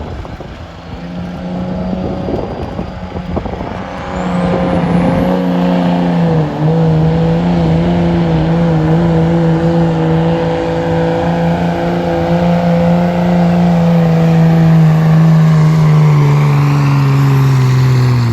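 Competition pulling truck's engine at full throttle dragging the sled down the track. It gets louder a few seconds in, holds a steady high pitch, then sags lower in pitch near the end as the truck slows under the load.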